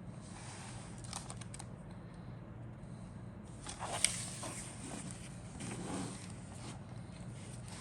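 Plastic model-kit sprues and bags being handled: light rustling and small clicks, with one sharp click about four seconds in, over a steady low hum.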